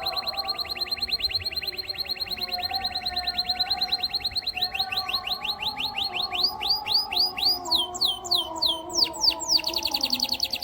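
Domestic canary singing: a long fast trill of quick falling notes that slows about four and a half seconds in into wider, slower downward sweeps, then breaks into more varied phrases near the end.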